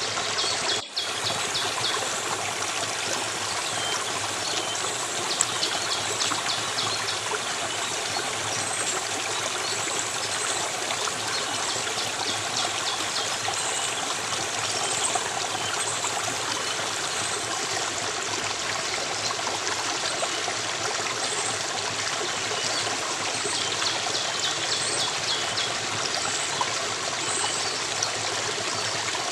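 Steady rush of a flowing stream, with bursts of rapid, high chirping now and then. There is a momentary dropout about a second in.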